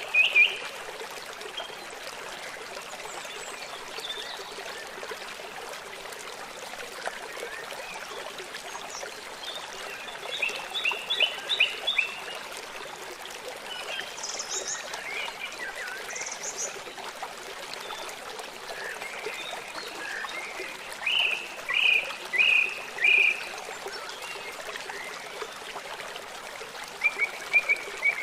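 Steady rush of a flowing river with songbirds singing over it. The birds sing in short series of quick, high chirps that come back every several seconds, a few times.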